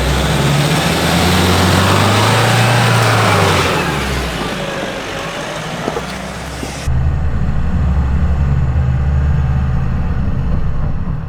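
Nissan Navara NP300 4WD's engine revving up and back down over the first few seconds, with broad tyre and track noise, as it works through a slippery section of dirt track. About seven seconds in the sound changes abruptly to a steadier, muffled engine drone.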